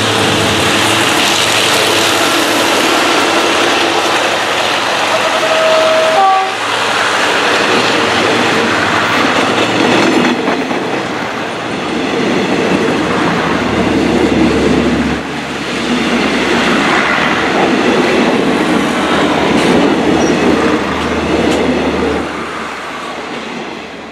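Diesel-electric locomotive passing close by at low speed with its engine running, followed by a string of passenger coaches rolling past, wheels clicking over the rail joints. The sound fades near the end as the train moves away.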